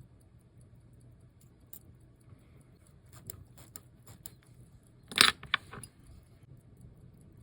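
Small metal clicks and clinks of watchmaker's tools and parts, loudest in a quick cluster about five seconds in. Behind them, the Citizen Super Ace watch movement ticks faintly and evenly, about four to five ticks a second.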